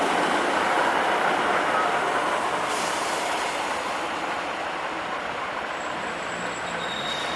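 A train rolling through the station, the rumble of its wheels slowly fading as it moves away, with brief faint squeals from the wheels on the rails.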